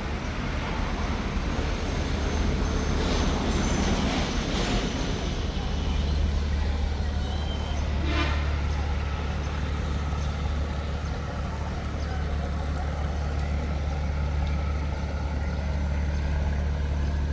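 A boat's engine running steadily with a low hum, growing louder about five seconds in. A brief rattle about eight seconds in.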